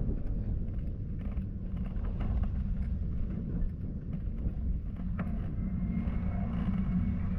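Steady low rumble of wind buffeting the microphone while riding on a windy road, mixed with the vehicle's running noise.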